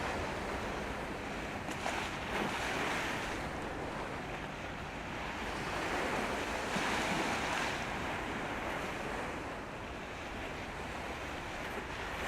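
Steady rushing noise of wind and sea water, with wind buffeting the microphone; it swells about two seconds in and again around seven seconds.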